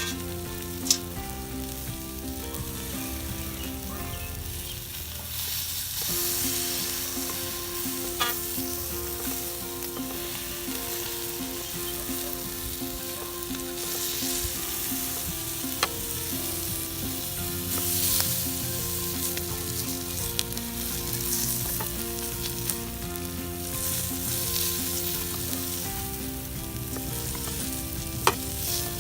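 Thick bison steak sizzling in a campfire frying pan: a steady frying hiss with a few sharp pops.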